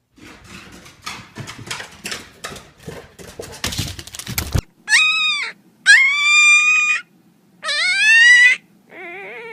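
Several seconds of rustling and knocking noises, then, after an abrupt stop, a domestic cat meows four times in long drawn-out meows, the last one lower and quieter.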